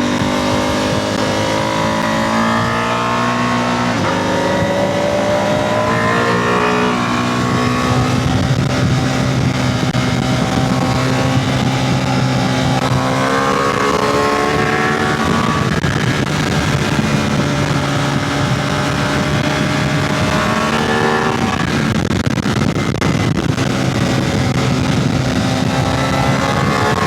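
Motorcycle engine pulling hard through the gears: its pitch climbs, then drops back at each upshift, several times, over a steady rush of wind noise.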